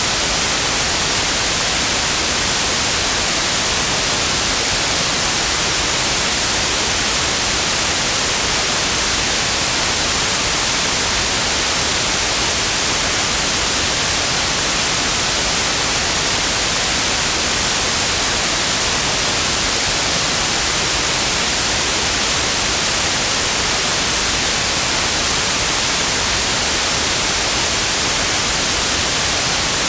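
Steady synthetic white noise: an even, unchanging hiss across the whole range, brightest in the highs.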